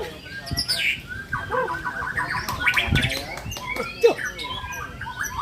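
White-rumped shamas (murai batu) singing hard, with a rapid mix of chirps, sweeping whistles and fast trills from several birds overlapping.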